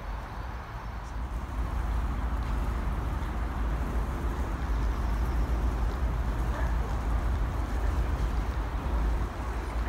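A distant train approaching along the line, heard as a steady rumble and rushing noise, with wind buffeting the microphone. The noise steps up a little about a second and a half in.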